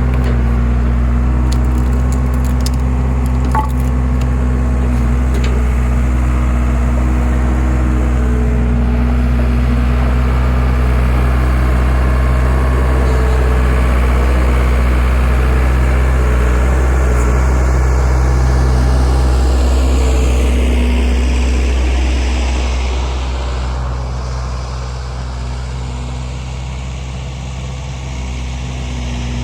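Skid steer engine running steadily to power a homemade hydraulic log splitter, with a few sharp cracks of wood splitting in the first few seconds. The engine drops quieter a little after twenty seconds.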